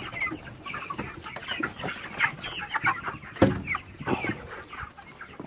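A flock of young broiler chickens clucking and cheeping, many short overlapping calls, with a single knock about three and a half seconds in.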